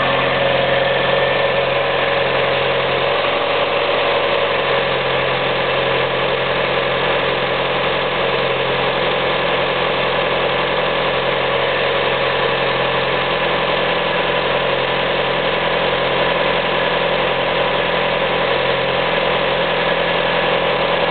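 2001 Vauxhall Omega 2.2 16v four-cylinder petrol engine idling steadily shortly after a cold start, running smoothly.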